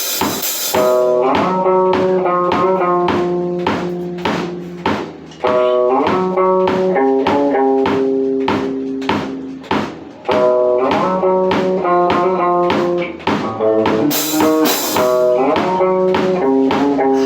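Metal band rehearsing: guitars and bass play a riff of held, changing notes over a steady drum-kit beat, with cymbal crashes near the start and about fourteen seconds in.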